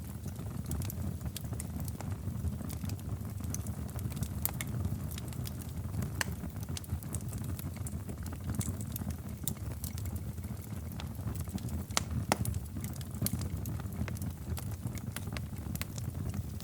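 Fire in a fireplace crackling: a steady low rumble of the flames under frequent sharp pops and snaps, with one louder pop about twelve seconds in.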